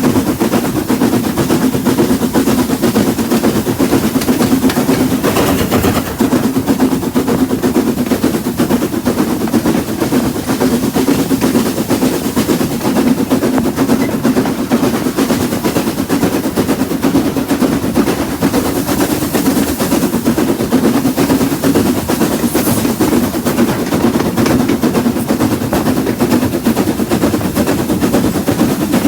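Noise of a moving train: a steady, rapid rattling clatter over a continuous low hum.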